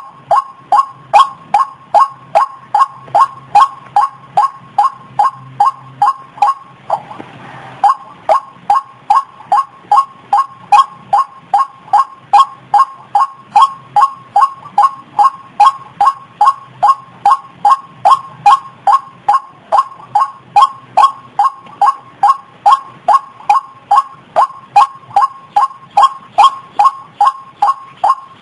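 White-breasted waterhen (ruak-ruak) calling, its note repeated evenly about two to three times a second, played as a bird-trapping lure call. The calls break off briefly about seven seconds in, where a short hiss fills the gap.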